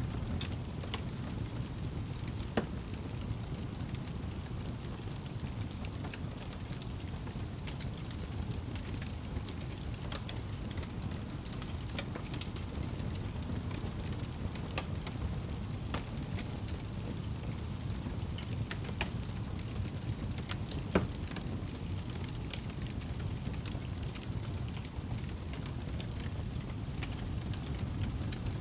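Wood fire burning in a fireplace: a steady low rumble of flames with scattered sharp crackles and pops, one louder pop about two-thirds of the way through.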